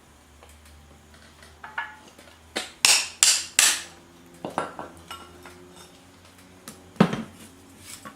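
Metal cookware and utensils clattering: a few light clinks, then three loud knocks in quick succession about three seconds in, a few softer clicks, and another loud knock near the end.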